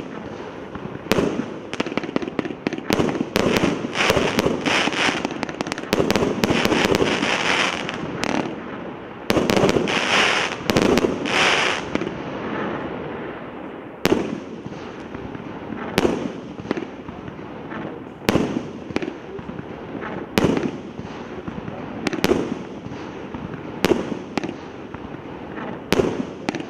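A 300-shot fireworks cake firing: a rapid run of shell bursts with dense crackling for the first half, then single bursts about every two seconds.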